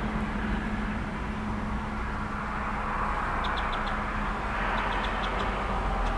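Steady road-traffic rumble with a low hum, swelling as a vehicle passes in the second half. A small songbird gives two quick runs of four or five high chirps about halfway through.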